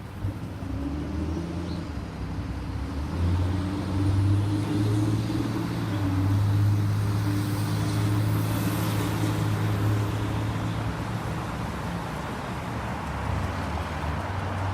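A large engine running with a steady low hum over a wash of urban noise, swelling over the first few seconds and easing off toward the end.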